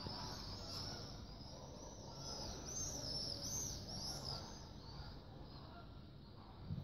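Many small birds chirping together: a dense, fast run of short high-pitched arched calls, busiest in the middle and thinning out near the end, over a low steady background rumble.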